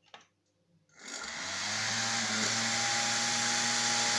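Hair dryer switched on about a second in. Its motor and fan spin up within about a second, then run steadily with a hum and a rush of air. This is the first test after repairing a motor shaft that was badly worn in the middle, and the shaft may not spin exactly true on its axis.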